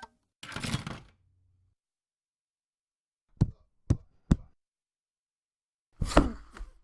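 Short sound-effect samples played one after another with dead silence between them: a brief noisy burst, then three sharp knocks about half a second apart, then another noisy burst with a falling tone near the end.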